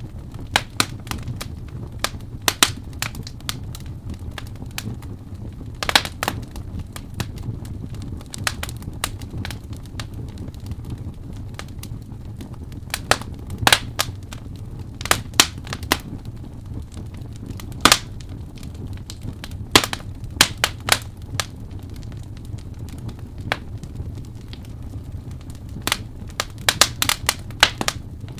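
Wood fire crackling: irregular sharp pops and snaps, some louder than others and bunched together near the end, over a steady low rumble of the flames.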